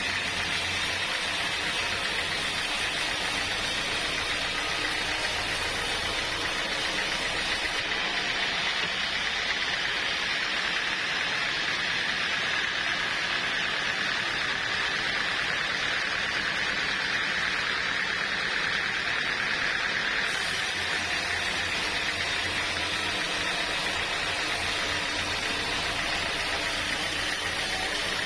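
Sawmill saw running steadily through wood: a continuous, even, high-pitched machine noise with a low hum beneath it.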